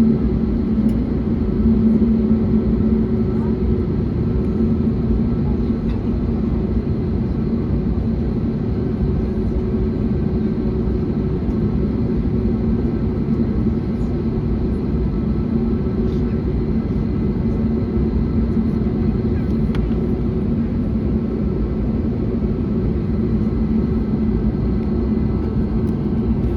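Steady cabin noise inside an Airbus A321neo: a low rumble of engines and airflow with a steady hum over it.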